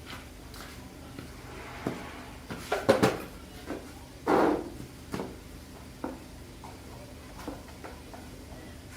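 Metal parts and tools clinking and knocking as a threshing machine is worked on by hand: a quick cluster of knocks about three seconds in and a louder, longer clatter about a second later, then a few light clicks, over a faint steady low hum.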